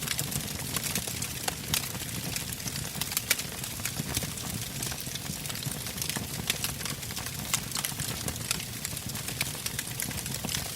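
Campfire of burning logs crackling: frequent sharp, irregular pops and snaps over a steady low rumble of flames.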